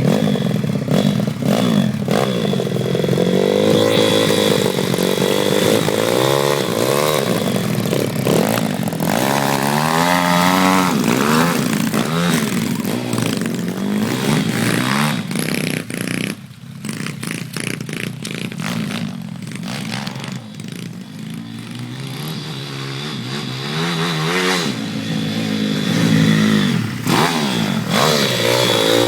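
Pit bike engines revving hard, pitch climbing and falling again and again as the bikes accelerate and shift. The engine sound drops away for a few seconds around the middle, then builds up again.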